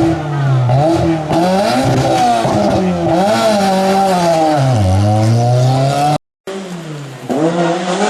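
Small Fiat rally car's engine revving hard, its pitch rising and falling again and again as it is driven flat out through a stage. About six seconds in the sound cuts off for a moment, then another engine run picks up and builds.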